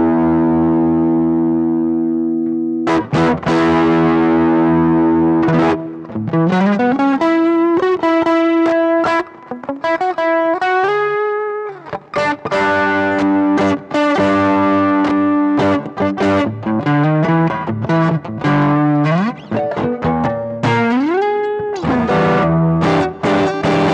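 Electric guitar played through an overdrive and amp-simulator pedal chain: a held, sustaining chord at first, then single-note lead lines with slides and bends. The tone is a mildly distorted, tube-amp-like crunch.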